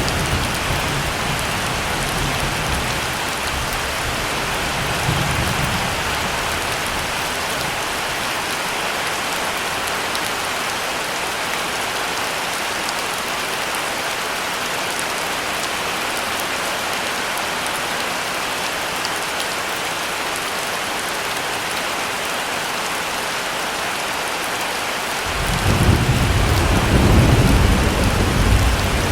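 Steady heavy rain falling, a constant hiss. Low thunder rumbles near the start and again around five seconds in, and a longer, louder roll of thunder begins about 25 seconds in and runs to the end.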